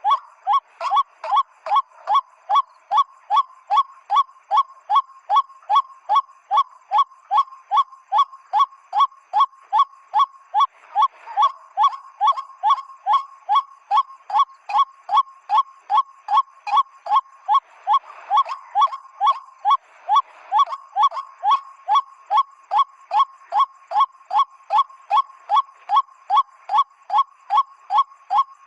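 A PVC-pipe bird whistle blown as a lure, imitating the white-breasted waterhen's call: short, honking notes that each dip slightly in pitch, repeated evenly about twice a second without a break.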